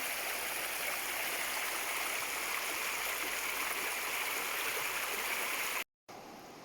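Mountain stream water rushing steadily, an even, full sound. Shortly before the end it cuts off abruptly and a much fainter steady hiss follows.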